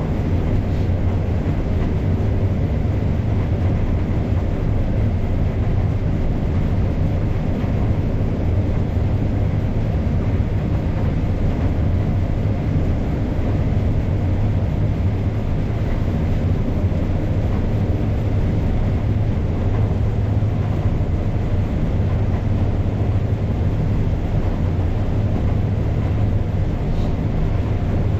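Case IH 7230 combine harvester running steadily while cutting corn with a draper header: a constant low machinery drone with a faint steady whine above it.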